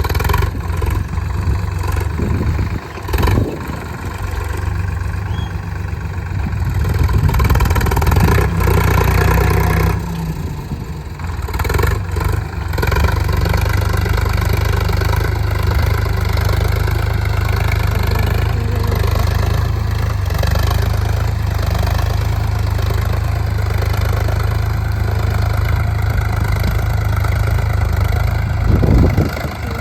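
Tractor engine running steadily, louder for a few seconds about seven to ten seconds in.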